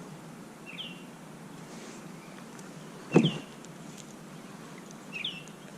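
A bird calling outdoors, repeating one short call every two seconds or so. A single sharp knock sounds about three seconds in, louder than the calls.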